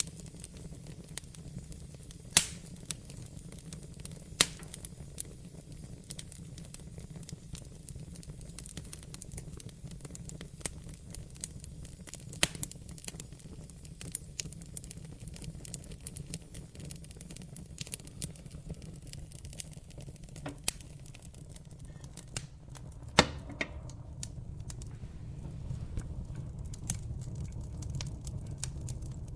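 Wood fire in a fireplace crackling: a steady low rumble with constant small ticks and occasional sharp pops, the loudest about 2, 4, 12 and 23 seconds in. The rumble grows a little louder near the end.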